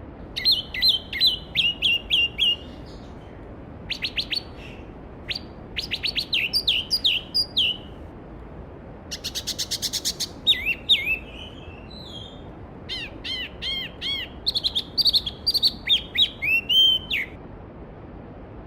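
Songbirds singing bouts of quick, bright, sweeping phrases, with one fast even trill partway through, over the steady rush of a flowing mountain stream.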